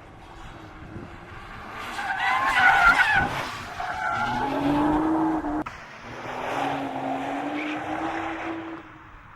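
Nissan GT-R R35's 3.8-litre twin-turbo V6 running hard while its tyres squeal and skid through a drift, the squeal loudest about two to three seconds in. The engine note carries on steadily after a brief break about halfway through.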